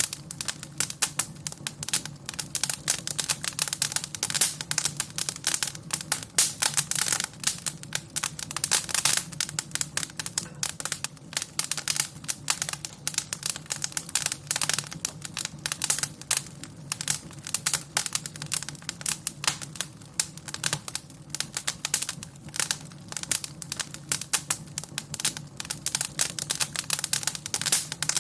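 Wood fire crackling in a fireplace: dense, irregular sharp snaps over a low, steady rumble.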